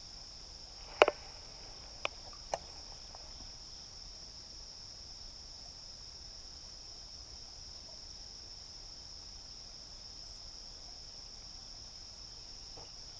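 Steady, high-pitched chorus of crickets chirring, with three short sharp clicks about one, two and two and a half seconds in, the first the loudest.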